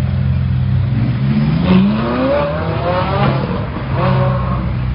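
Sports car engines running with a steady low rumble, with one revved up about a second and a half in; the engine pitch rises and falls through the middle.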